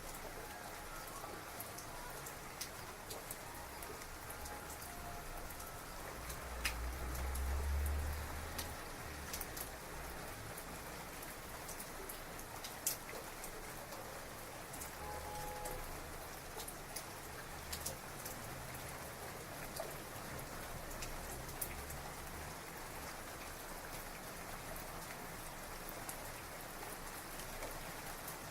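Heavy rain falling steadily, with individual drops ticking sharply close by. A low rumble of distant thunder swells and fades about seven seconds in, with fainter low rumbles later on.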